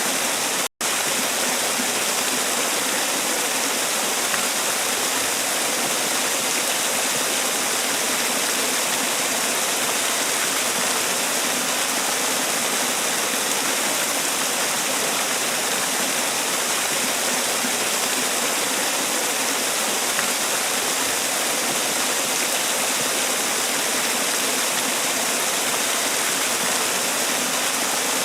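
Man-made waterfall: water pouring and splashing in a steady, even rushing hiss. The sound cuts out for a split second less than a second in, then resumes unchanged.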